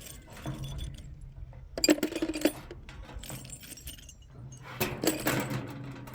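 Hard objects clinking and rattling in two short bursts, about two seconds in and again about five seconds in.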